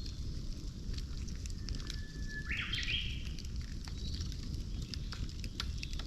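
Wood campfire burning with frequent sharp crackles and pops over a low steady rumble. A bird calls once, about halfway through: a held whistle and then a quick, higher phrase.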